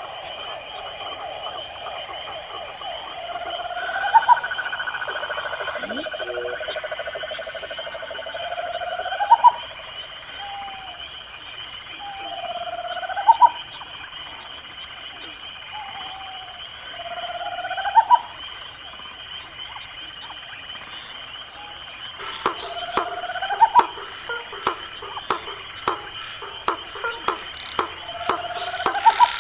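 Night chorus of crickets and frogs: a steady high-pitched insect trill throughout, with short upward-sweeping frog calls repeating every few seconds and a rapid trilled call near the start. Faint regular ticking sits above them, and a run of clicks comes in near the end.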